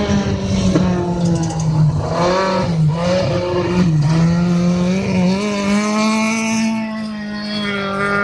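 Autocross race car engine running hard at high revs. The pitch drops briefly about two and a half and four seconds in, then holds steady through the second half.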